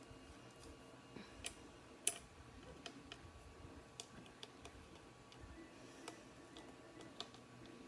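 Scattered small clicks and ticks of a screwdriver turning a screw into a power-supply cooling fan's unthreaded mounting hole, the screw cutting its own threads as it goes in.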